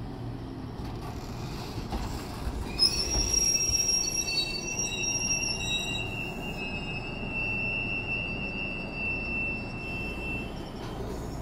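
A 105-series electric train rolls slowly alongside the platform and braking to a stop, its wheels rumbling low. About three seconds in, a steady high squeal from the wheels and brakes begins, several pitches together, and it dies away near the end.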